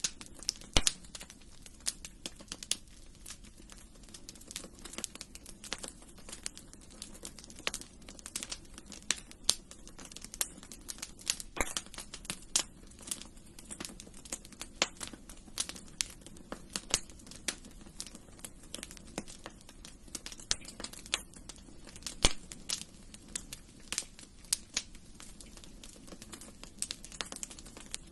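Wood fire burning in a fireplace, crackling with many sharp irregular pops and snaps over a low steady hiss of the flames.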